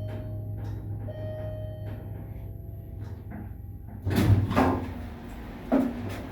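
1986 Dover elevator: a steady low machinery hum with two short electronic beeps about a second apart, then the elevator's sliding doors rattling along about four seconds in and stopping with a knock near the end.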